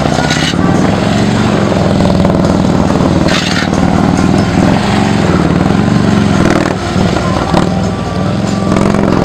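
Large police motorcycle's engine running at low speed through tight, slow turns, its revs rising and falling again and again as the rider works the throttle.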